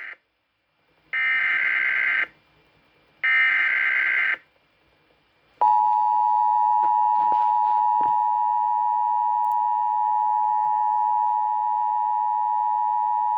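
Emergency Alert System tones: two roughly one-second bursts of the warbling SAME digital header about a second apart, then, after a short gap, the steady two-tone attention signal held for about eight seconds. Together they mark the start of a severe thunderstorm warning.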